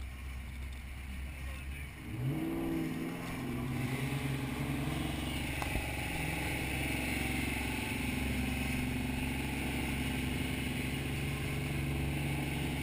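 Mustang V8 engine rising in pitch as it accelerates about two seconds in, then running steadily at a held speed.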